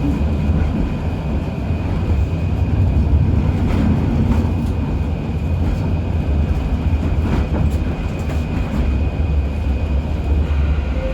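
UKVZ KTM-23 (71-623) tram running between stops, heard from inside the passenger cabin: a steady low rumble from the wheels and running gear, with a faint steady high whine and a few short clicks. Near the end, a new steady whine comes in.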